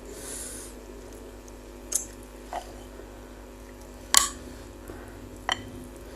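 A person eating bakso meatballs, chewing, with a brief hiss near the start and four short, sharp clicks, the loudest about four seconds in.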